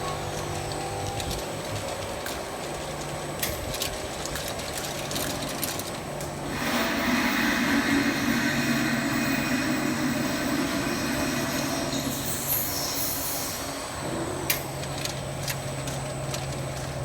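Automatic bottle washing machine running: a steady mechanical hum with scattered sharp clicks, and a louder hissing stretch from about six to twelve seconds in.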